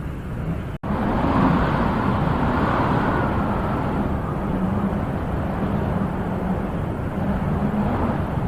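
Steady rushing wind with no distinct tones. The sound cuts out for an instant just under a second in, then comes back and swells in a gust.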